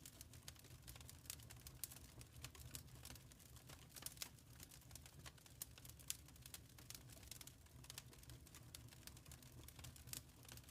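Wood fire crackling in a fireplace: many small, irregular pops and snaps over a steady low rumble of the flames.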